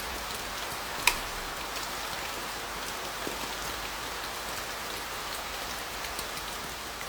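Heavy rain falling steadily on a car, an even hiss, with one sharp click about a second in.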